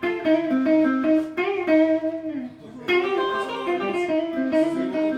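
A guitar played on its own, picking out a slow melodic phrase of sustained single notes and small chords, with a new phrase starting roughly every one and a half seconds.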